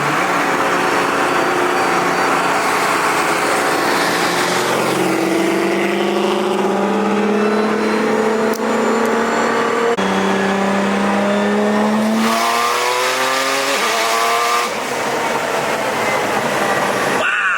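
Nissan GT-R engine pulling hard under full throttle, heard from inside the cabin. The revs climb steadily, drop sharply at a gear change about ten seconds in, climb again, then fall and rise briefly once more near the end.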